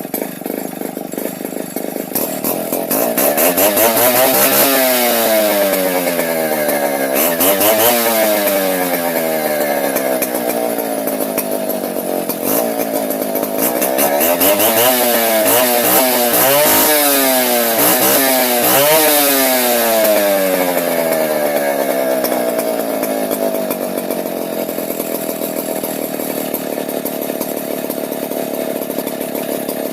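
Stihl 070 two-stroke chainsaw engine running: it idles, is revved up and back down several times with the throttle, and settles back to a steady idle for the last several seconds.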